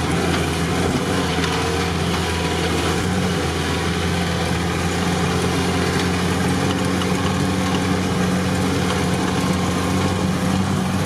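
Off-road car's engine running at a steady low speed, heard from inside the cab while driving over a rough dirt track, with a constant hum and a wash of road and body noise.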